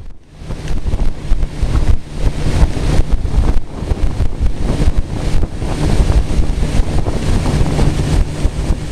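Heavy wind buffeting the microphone from a moving vehicle, over a steady low rumble. It comes in abruptly just after the start.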